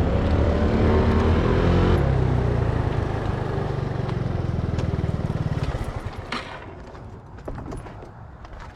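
Pickup truck's engine running steadily, then dying away about six seconds in as it is shut off, followed by a few light clicks and knocks.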